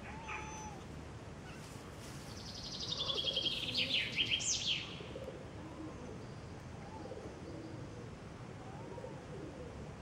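A songbird sings one quick song of rapidly repeated high notes that fall in pitch and end in a sharp flourish, about two seconds in; it is the loudest sound. Faint short kitten mews come before and after it.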